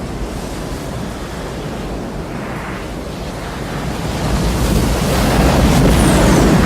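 Steady rushing noise like strong wind, growing louder over the last few seconds, with a faint high whistle gliding downward about six seconds in.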